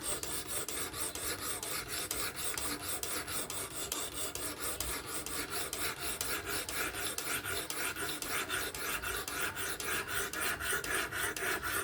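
A 220-grit sharpening stone on a Work Sharp Professional fixed-angle sharpener rasping along a Spyderco Kapara's S30V steel blade in rapid, even back-and-forth strokes, grinding the edge bevel.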